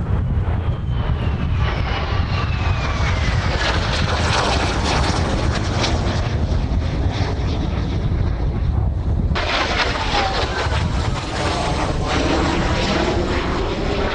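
Kawasaki T-4 jet trainers flying past, their turbofan whine falling in pitch as they go by. A second pass cuts in abruptly about nine seconds in. Strong wind rumbles on the microphone throughout.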